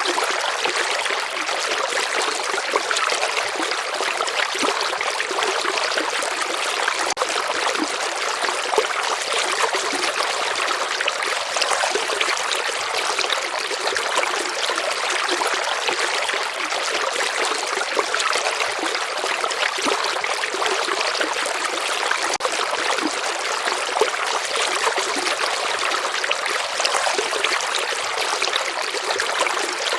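A shallow river or stream flowing steadily, with a constant rushing and trickling of water over stones.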